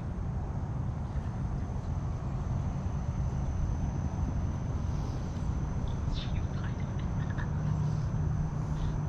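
Wind buffeting the microphone outdoors in stormy weather, a steady low rumble, with a few faint high chirps in the second half.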